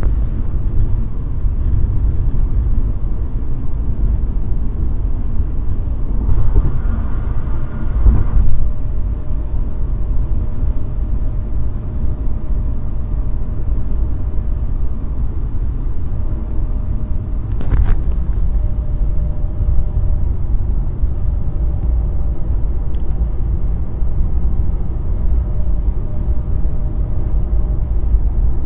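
A 2012 Subaru Impreza running with a steady low rumble and a faint, steady whirring tone, the unexplained whirring noise that the owner is recording. The sound swells briefly about six to eight seconds in, and there is a single click near eighteen seconds.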